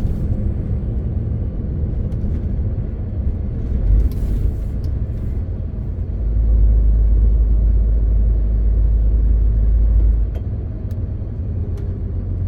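MAN TGX 18.520 truck's straight-six diesel engine and road noise heard from inside the cab as it drives, a steady low rumble. About six seconds in the rumble grows deeper and louder for around four seconds, then drops back. There is a short noisy burst about four seconds in.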